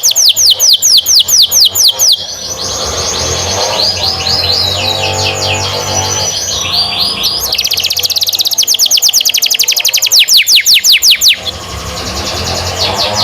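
Domestic canary singing a long, loud song: fast trills of repeated high downward-swept notes, about six a second, broken by warbled and lower rolling phrases, with a new trill starting near the middle.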